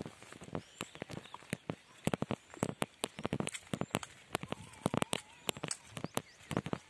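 Irregular sharp crackling clicks and snaps, several every second, over a faint outdoor hiss.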